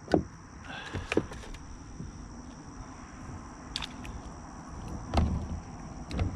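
Hollow knocks and thumps against a kayak hull, about five at irregular intervals, with a quick pair about a second in.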